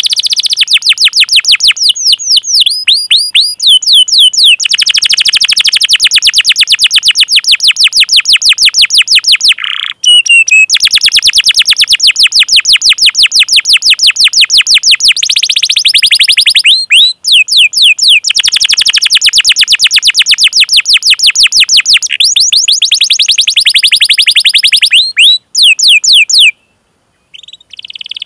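A domestic canary singing long rolling trills, very rapid runs of the same sweeping 'cuit cuit' chirp repeated many times a second. The song breaks off briefly twice and stops shortly before the end, then fainter chirps follow.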